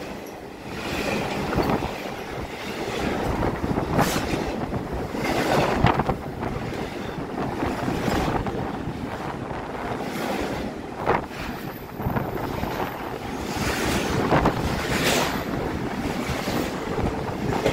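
Norfolk Southern intermodal freight cars rolling past close by, a steady rumble of wheels on rail with wind from the passing train buffeting the microphone. Occasional sharp knocks stand out over the rumble.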